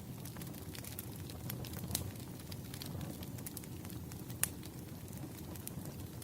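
Wood fire crackling: a steady low rumble of burning logs with irregular sharp pops, the loudest pop about four and a half seconds in.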